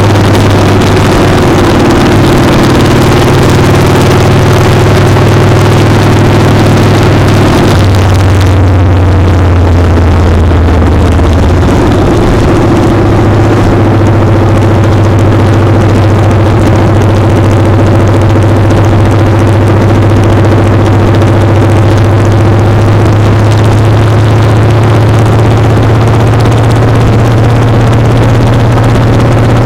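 Motorcycle engine running at speed, picked up close to the engine from a foot-peg mount, with heavy wind rush on the microphone. About eight seconds in the wind noise drops and the engine note falls, then from about twelve seconds it holds a steady, slightly higher note.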